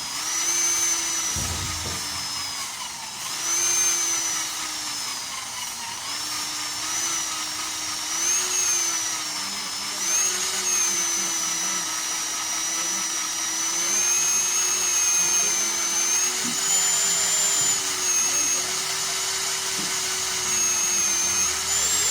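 Small electric drill running in spurts, its whine rising and falling in speed with brief stops, as it spins an engine valve against its seat during valve lapping.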